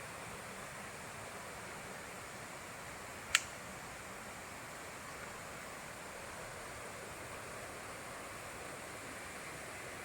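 Steady rushing hiss of falling water from a waterfall, with a single sharp click about a third of the way in.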